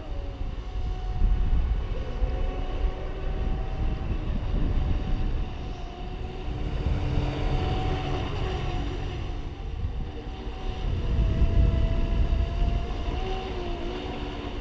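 Brushless electric RC racing boats running at speed, their motor and propeller whine wavering up and down in pitch as they throttle and turn, over a low rumble.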